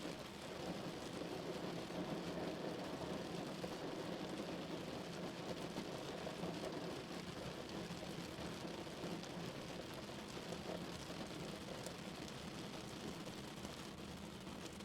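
Steady rain falling on a car's roof and windows, heard from inside the car as an even, dense hiss with faint ticks of single drops.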